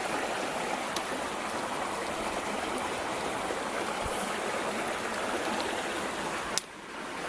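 Creek water flowing, a steady rushing hiss. About six and a half seconds in it drops away suddenly, then slowly comes back.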